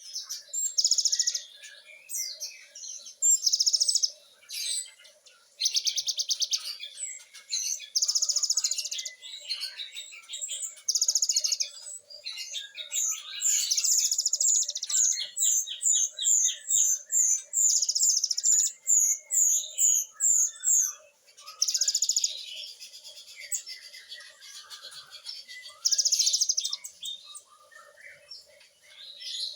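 Cinereous tit (gelatik batu) singing loudly and continuously: repeated bursts of very fast, high trills each lasting about a second, with a long run of rapid, sharp repeated notes in the middle.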